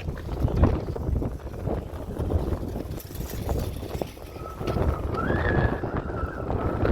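Wind buffeting the microphone in gusts, with a thin, steady high tone coming in about four seconds in, stepping up in pitch and back down.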